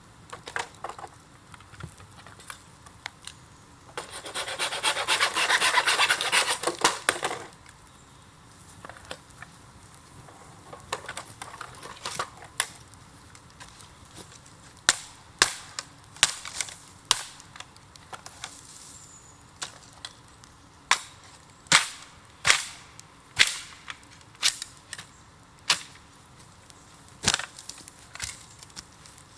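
Burning bamboo in a bonfire cracking and popping, with sharp snaps that come every half second or so in the second half. A loud rushing noise lasting about three seconds comes near the start.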